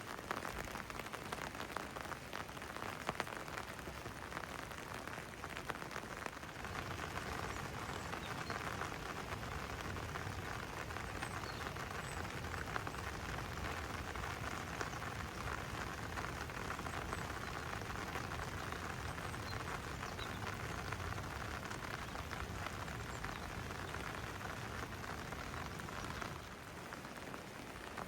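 Steady rain falling and pattering, with a low rumble underneath from about six seconds in.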